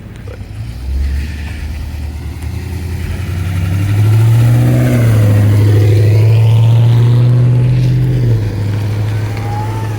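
A car's engine and exhaust under acceleration. It builds over the first few seconds, is loudest for about four seconds in the middle, then eases off.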